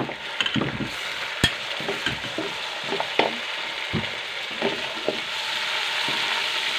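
Ginger-garlic paste and browned onions sizzling in hot ghee in a metal pot, stirred with a wooden spoon that scrapes and knocks irregularly against the pot. The sizzle grows a little stronger in the second half.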